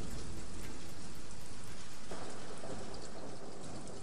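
Recorded rain falling, a steady hiss with scattered drop ticks, beginning to fade out near the end.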